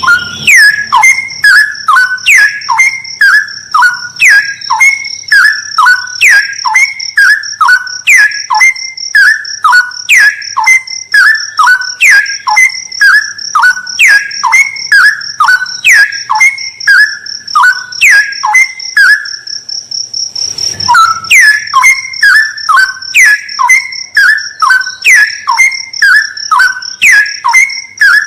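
Straw-headed bulbul (cucak rawa) song: loud whistled notes gliding down and up, repeated evenly a little over once a second, with a brief break about two-thirds of the way through. A steady high-pitched whine runs underneath.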